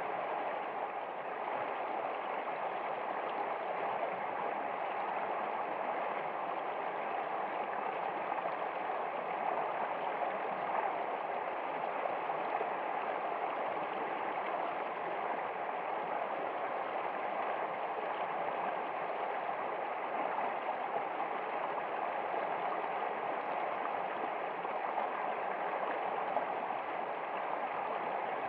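Stream water flowing, a steady, even rush that does not change.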